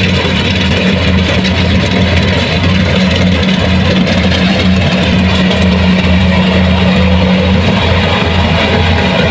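Diesel engine of a Kubota rice combine harvester running steadily under load, a loud constant low hum with a steady higher drone and a hiss of machinery noise over it.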